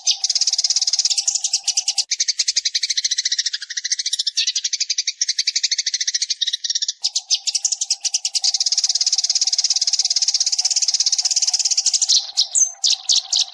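Sparrows chattering in a dense, continuous stream of rapid high chirps, a recorded lure call used to draw sparrows in for trapping. A steady low hum runs underneath for the first two seconds and again from about seven seconds on, and a few separate chirps close it before it stops abruptly.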